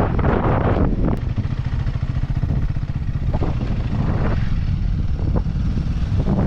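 Motorcycle engine running steadily on the move, with wind rumbling on the microphone.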